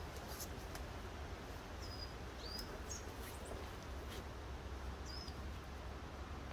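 A small bird calling in short, high chirps, about five times, over a steady low rumble, with a few faint clicks.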